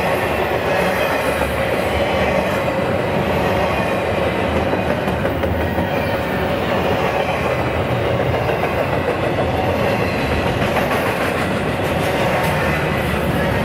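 A train's cars rolling past on the track: a steady, continuous rumble of steel wheels on rail.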